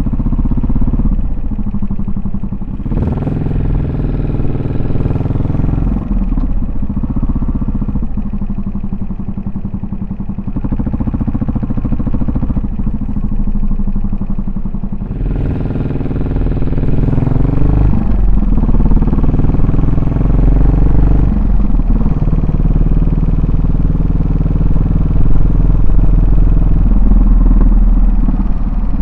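Yamaha SR400's single-cylinder four-stroke engine and exhaust under way, rising in pitch as it accelerates about 3 s in and again about 15 s in, with steadier running between; louder in the second half.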